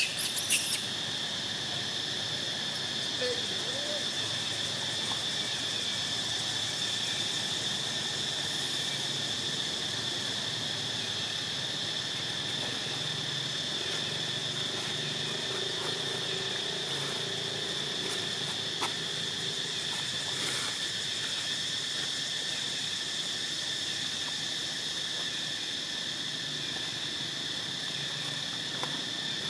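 Steady chorus of insects such as crickets or cicadas: a continuous high-pitched drone with a fainter, lower tone beneath it, unchanging throughout.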